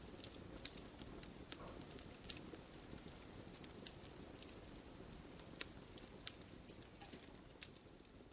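Wood fire in a fireplace crackling, with irregular sharp pops and snaps over a soft steady hiss of burning.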